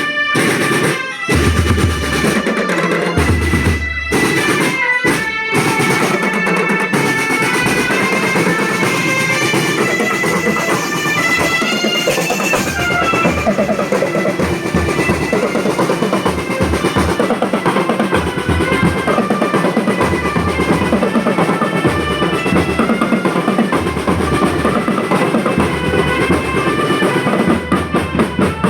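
School marching drum band playing: snare and bass drums with drum rolls under a line of held melodic notes.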